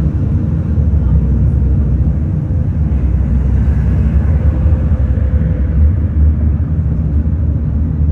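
A city bus driving, heard from inside: steady low engine and road rumble, with a faint whine coming in around the middle.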